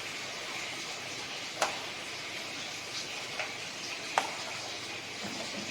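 Chicken cooking in its pot, a steady sizzling hiss with a few sharp clicks, three times.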